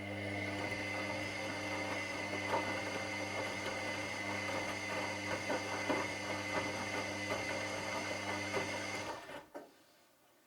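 Washing machine drum motor running with a steady electric hum and a thin high whine, the laundry tumbling inside with small irregular clicks and knocks. The motor stops about nine seconds in, a pause between drum turns of the wash cycle.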